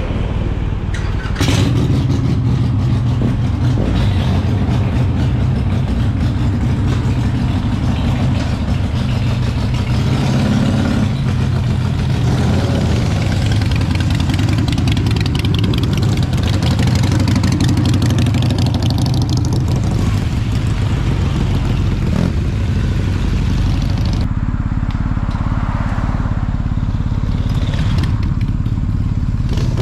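Big motorcycle's engine running steadily while riding, with wind rush on the microphone; the rush thins out about 24 seconds in.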